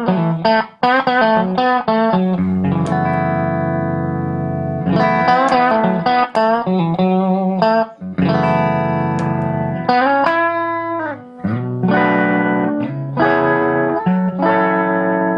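Electric guitar played through a Shere Sound Whirligig analog stompbox on its tremolo setting with the depth at zero, which gives a subtle breakup: edgy tones without being obviously distorted. Chords and short single-note phrases, with a few bent notes.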